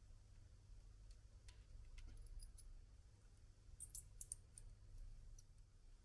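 Near silence over a low hum, with a few faint small clicks about four seconds in.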